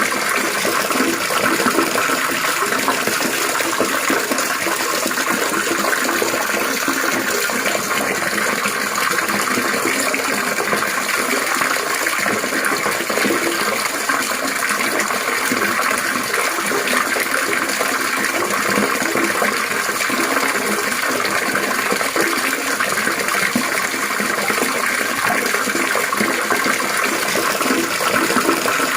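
Trickling, splashing water running steadily and evenly, with no let-up.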